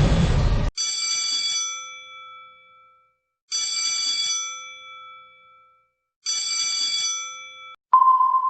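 A bell-like ding sound effect, struck three times about three seconds apart, each strike ringing out and fading. The tail of a noisy explosion effect cuts off in the first second, and a single sonar-like ping begins near the end.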